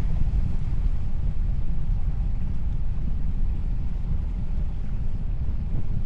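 Steady low rumble aboard a boat: wind buffeting the microphone over the boat's engine and water noise.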